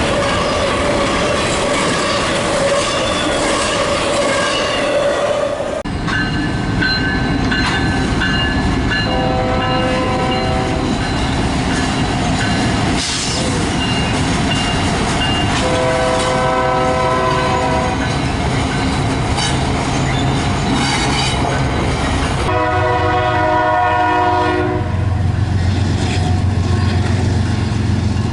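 Train rolling past with steady rumble and clatter of wheels over the track, while a locomotive horn sounds three chord-like blasts of about two seconds each, starting roughly a third of the way in, past the middle, and near the end. A steady high whine is heard for the first six seconds and then cuts off.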